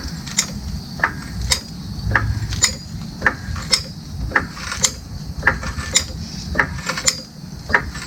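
Hydraulic floor jack being pumped, its handle and pump mechanism clicking and clanking in an even rhythm of about two strokes a second.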